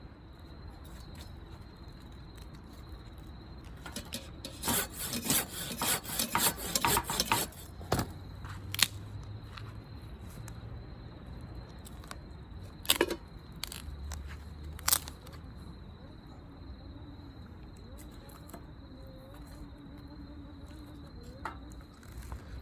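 A steady high-pitched insect trill runs throughout. Over it, a flurry of scraping and rubbing comes about four to eight seconds in, and a few single sharp knocks follow later.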